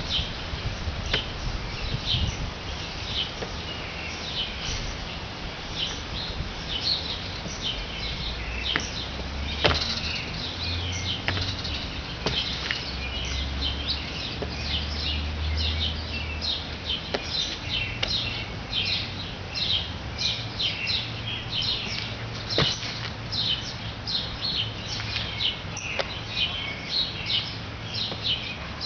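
Birds chirping over and over in short high notes, thicker in the second half, over a low steady hum. A few sharp knocks come through, from sneakers stepping on the wooden deck.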